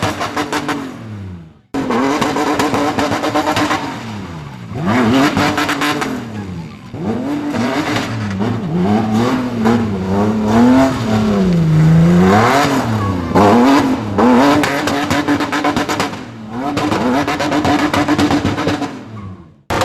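Car engine revving hard, its pitch swinging up and down again and again as the throttle is worked. The sound breaks off suddenly about two seconds in.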